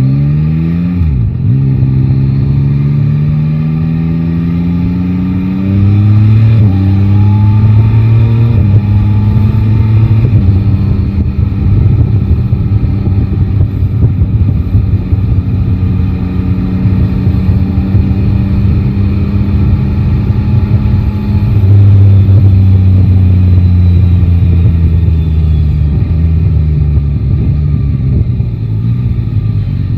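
Yamaha Tracer 9 GT's three-cylinder engine pulling away and rising in pitch, with breaks at the upshifts about six and a half and eight and a half seconds in. It then holds a steady pitch at cruise and eases off near the end.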